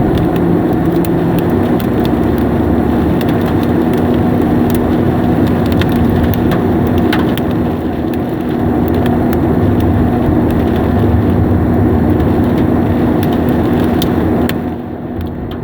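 Heavy rain and hail drumming on a car, a loud steady rush with scattered sharp ticks of hailstones striking, over a car's steady engine hum. The noise eases briefly near the end.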